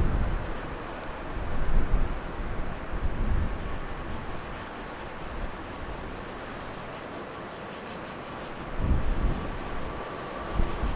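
Insects chirring steadily at a high pitch, with a fast, even pulsing running through it. Low gusts of wind rumble on the microphone about two seconds in and again near the end.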